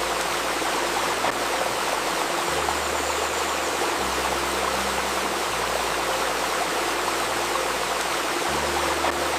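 Babbling river water running steadily, with soft, low sustained tones underneath that shift to a new pitch every couple of seconds: a 528 Hz healing-tone layer.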